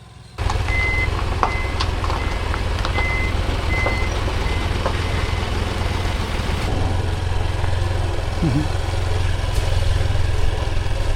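Honda XR150L single-cylinder motorcycle engine running steadily under a low rumble of wind on the microphone. A high, evenly spaced beep repeats for the first few seconds.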